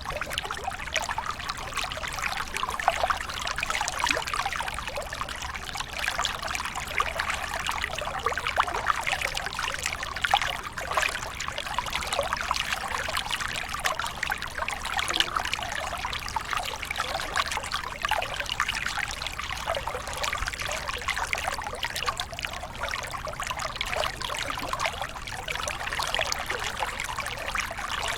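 Small waterfall splashing and trickling steadily: a continuous patter of many small splashes, mostly in the middle and upper range, with no deep roar.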